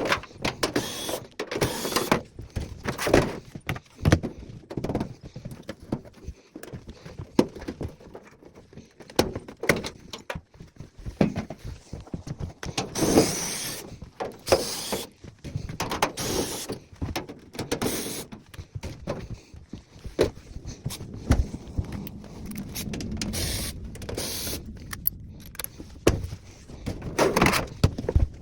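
A power driver whirring in short bursts as screws are driven out, mixed with knocks and clatter from the dryer's cabinet panels being taken off during teardown.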